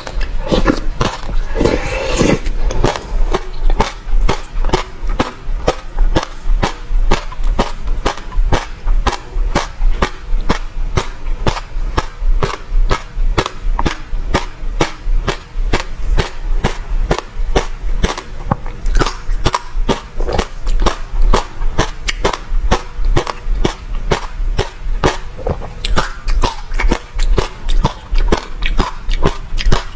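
Close-miked chewing of passion fruit pulp with crunching of the seeds: a run of sharp, loud crunches about three a second, with some softer wet mouth sounds at the start.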